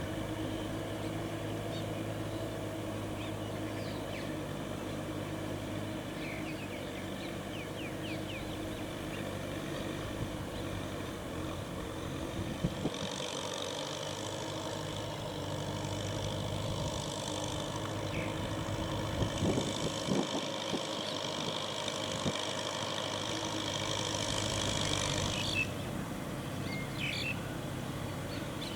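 Kubota M6040SU tractor's four-cylinder diesel engine running steadily while ploughing. A higher hissing layer joins about halfway and cuts off suddenly a few seconds before the end.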